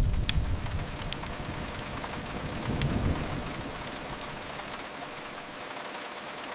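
Steady rain on a window with a deep rumble that swells and fades, loudest at the start and again about three seconds in. A few sharp fireplace crackles come early.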